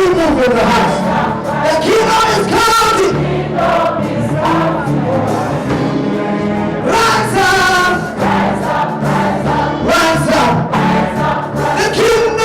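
Church worship band and congregation singing a gospel praise song, a choir of voices over a steady accompaniment.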